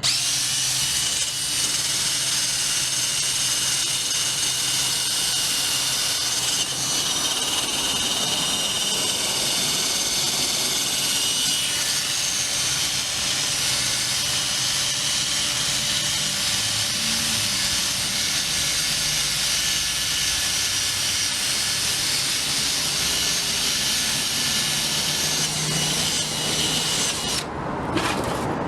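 Power tool with a wire wheel running steadily against a rusty anvil, stripping caked-on rust with a continuous high whirring scratch. It stops for about a second near the end, then starts again.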